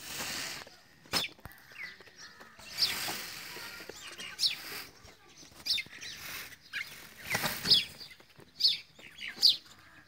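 Birds chirping: a series of short, high, falling chirps about every second, with brief patches of rustling noise between them.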